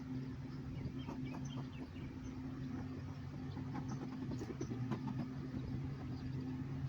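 Honeybees buzzing around an opened, smoked hive in a steady hum, with a few light clicks and knocks from the wooden frames and boxes being handled.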